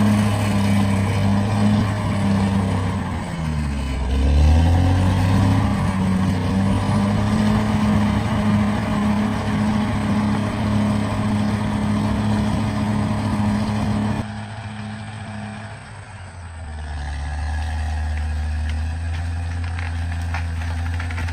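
Bulldozer diesel engine working under load. Its pitch sags briefly about three to four seconds in, then climbs back. About two-thirds of the way through the sound cuts off suddenly to a quieter, lower engine note.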